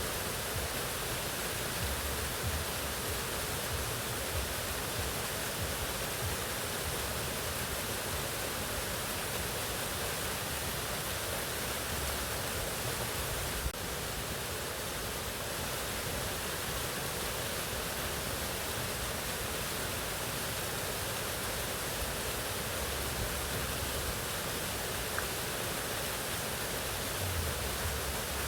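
Mountain waterfall: a steady, even rush of falling water, with one faint click about halfway through.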